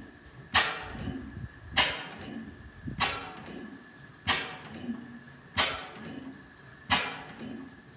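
5 HP Hornsby-Akroyd hot-bulb oil engine running slowly: a sharp crack from each firing stroke, six in all about every second and a quarter, each ringing out briefly, with softer mechanical knocks between.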